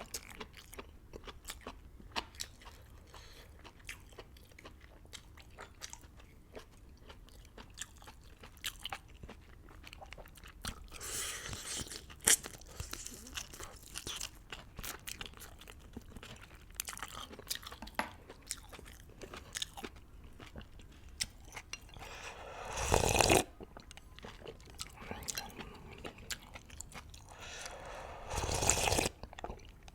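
Close-miked eating of beef hot pot noodles: wet chewing and mouth clicks throughout, with two loud noodle slurps, one about two-thirds in and one near the end.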